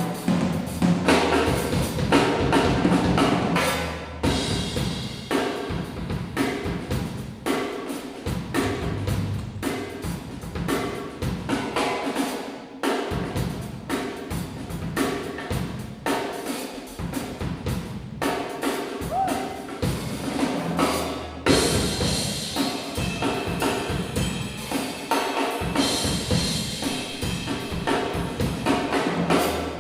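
Youth jazz big band playing live, with the drum kit prominent: snare and bass drum hits driving the band.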